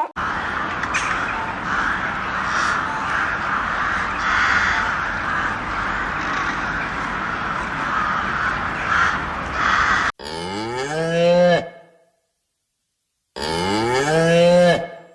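A dense, steady din of many birds calling, cut off sharply about ten seconds in; then a cow moos twice, each moo about a second and a half long and rising in pitch.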